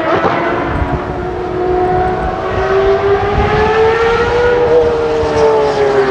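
Ferrari 599XX Evoluzione's V12 engine running hard on track as the car accelerates. The note climbs slowly, then drops in pitch near the end as the car goes past.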